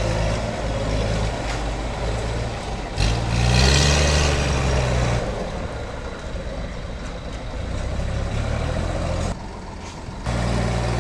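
Heavy engine running steadily, speeding up and slowing again about three to five seconds in, with a rushing hiss over it at that point.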